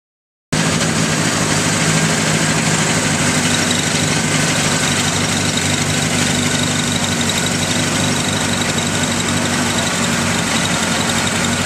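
Rally car engine idling steadily, coming in abruptly about half a second in.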